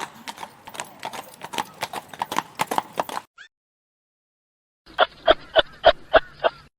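Horse's hooves clip-clopping, a few strokes a second, in two runs separated by a couple of seconds of silence.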